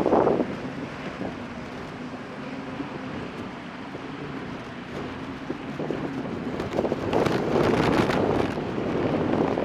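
Wind buffeting the microphone over the low, steady running of boat engines and water. The gusts ease about a second in and pick up strongly again from about seven seconds.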